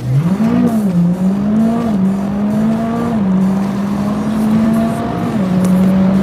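Tuned Mitsubishi Lancer Evolution X's turbocharged 2.0-litre four-cylinder pulling hard at full throttle. The revs climb slowly in each gear and drop sharply at upshifts about two, three and five and a half seconds in.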